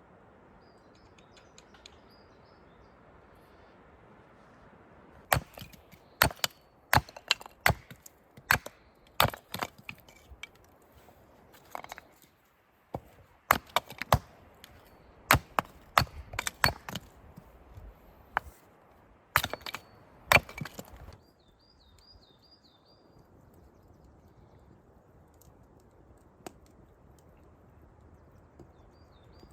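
Wood cracking and knocking under a run of sharp blows, about one or two a second for some fifteen seconds before stopping. A bird chirps briefly before and after.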